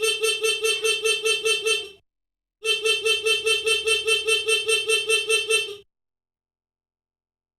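Motorcycle electric horn wired through a turn-signal flasher, sounding as a rapid stuttering beep at about six pulses a second. It is pressed twice: a burst of about two seconds, then after a short gap a longer one of about three seconds.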